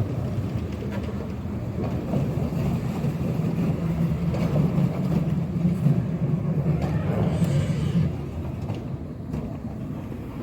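Bus engine running, with a steady low rumble whose engine note strengthens about two seconds in and drops away around eight seconds.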